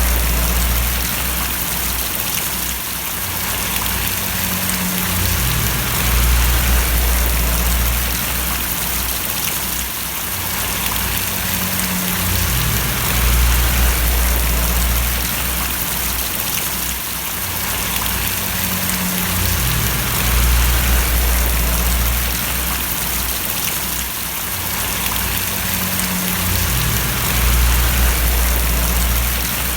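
Steady rain falling and splashing, an even hiss of drops. Under it a low hum swells and fades about every seven seconds.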